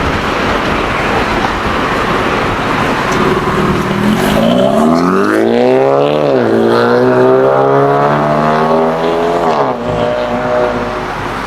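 Exhaust of a BMW 330e's 2.0-litre turbocharged four-cylinder through a catless downpipe and M Performance muffler kit. A steady rushing noise gives way about four seconds in to the engine revving up, its pitch rising, dipping once, climbing again and then dropping off near the end.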